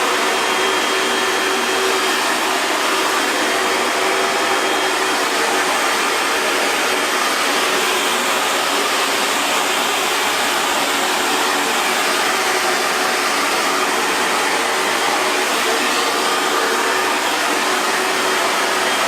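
Hair dryer running steadily: a constant airy rush of blown air with a faint steady motor whine underneath.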